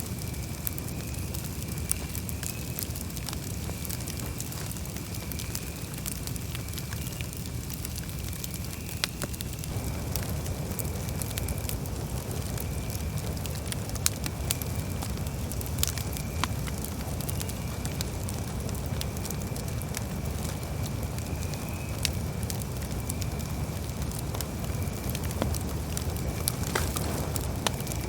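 Campfire burning: scattered sharp crackles and pops over a steady low rumble of the flames, a little fuller from about ten seconds in.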